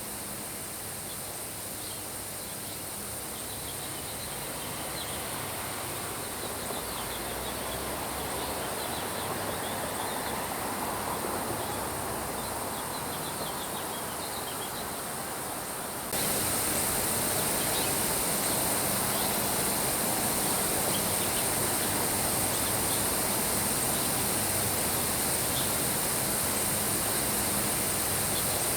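Steady rain with small birds chirping. Just past halfway a louder, higher hiss cuts in suddenly and holds steady.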